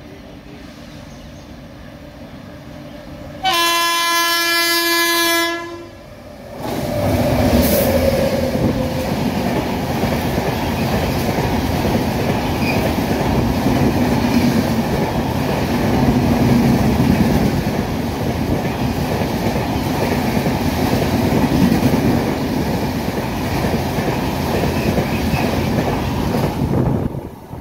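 A locomotive's horn sounds for about two seconds as the express approaches at speed. A couple of seconds later the train rushes close past: a loud steady rumble and clatter of the LHB coaches' wheels on the rails that goes on for about twenty seconds and cuts off sharply near the end.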